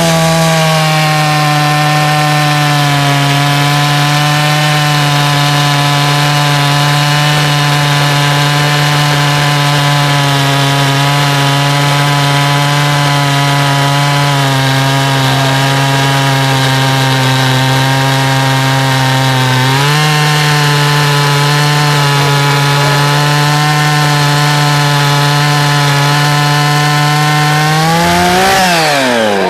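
Large two-stroke chainsaw at full throttle cutting through a log, its engine pitch held down steadily under load. The pitch sags slightly about halfway, picks up again at about two-thirds, and near the end the saw revs up freely as it breaks out of the wood, then drops back as the throttle is released.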